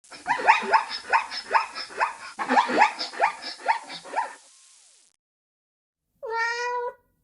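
A dog barking rapidly, about two to three short barks a second, for the first four seconds or so. After a brief pause comes one drawn-out cat meow near the end.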